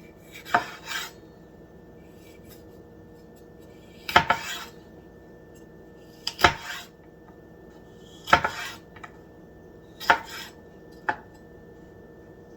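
Kitchen knife cutting peppers into rings, each cut ending with a sharp knock on the cutting board and a short scrape, in a burst about every two seconds.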